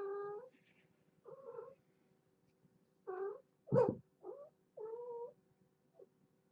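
Domestic cat meowing repeatedly: about seven short calls, the loudest about four seconds in.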